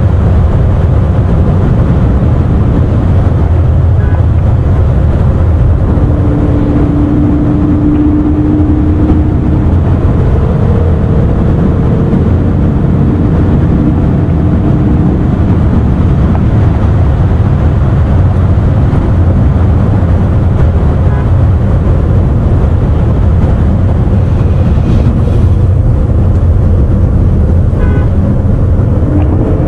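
A car driving at speed: a loud, steady low rumble of engine, road and wind noise. A faint steady whine comes in about six seconds in and sits higher from about ten seconds.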